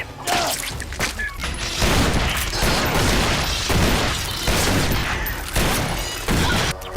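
Film action sound mix: a dense clatter of many rapid impacts and noise, which swells about two seconds in and runs with a low rumble, over music.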